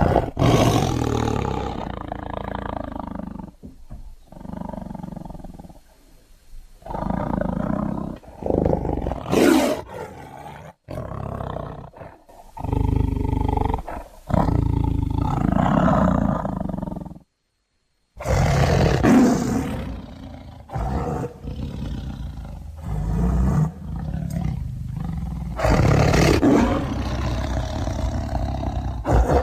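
Tiger roaring and growling: a run of loud, rough roars of one to several seconds each, separated by short breaks, with a sudden cut to silence about 17 seconds in.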